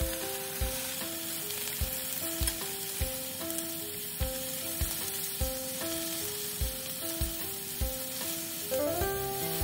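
Chicken tenderloin and eggplant sizzling in hot oil in a frying pan as the pieces are turned. Light background music with short melodic notes and a soft, regular beat plays underneath.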